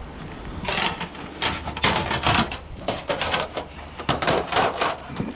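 A quick run of knocks, clunks and rattles from scrap items being handled and shifted about, starting about a second in.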